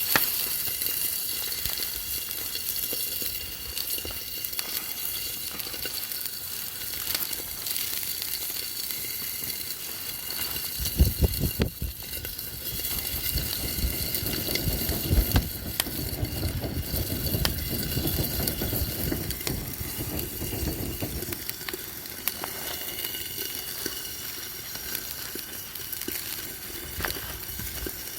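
Steady sizzling of food cooking over a campfire. About eleven seconds in, a low rumble with a few thumps joins it for roughly ten seconds.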